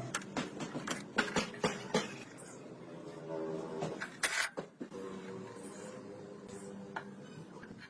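Irregular metallic clinks and knocks of hand tools and parts being handled, over a faint steady hum.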